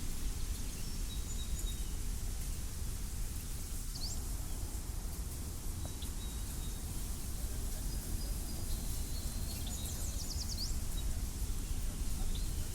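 Wind over a wheat field, rumbling steadily on the microphone, with scattered high bird chirps above it, including a quick run of notes about ten seconds in.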